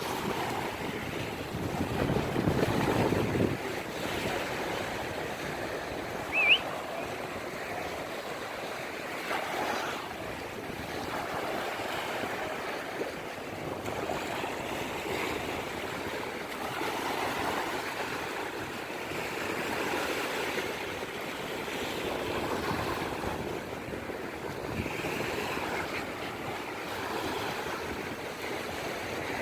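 Ocean surf: waves breaking and washing in, the rush swelling and fading every few seconds. A brief high chirp sounds about six seconds in.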